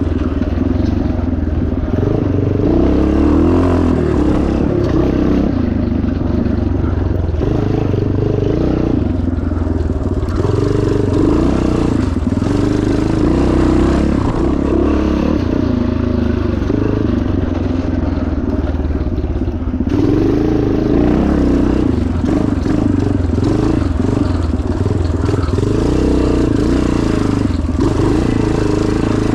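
1977 Yamaha TT500's single-cylinder four-stroke engine working hard off-road, its revs rising and falling every couple of seconds as the rider shifts and throttles through the course, with the bike clattering over rough ground.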